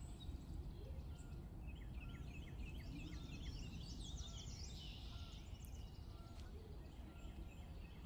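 Faint birdsong: small birds chirping in quick runs of short repeated notes and trills, over a low steady background noise.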